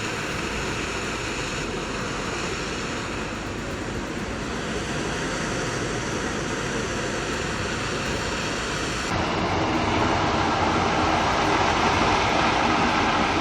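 Steady roar of high-pressure gas escaping from a burst gas pipeline. About nine seconds in it shifts abruptly to a louder, rougher roar.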